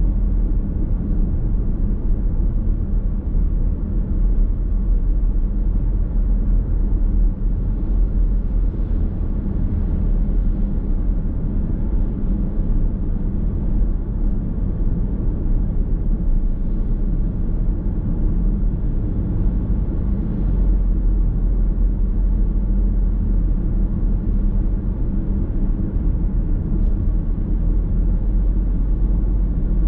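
Steady low rumble of a car driving at an even pace, with road and engine noise heard from inside the cabin.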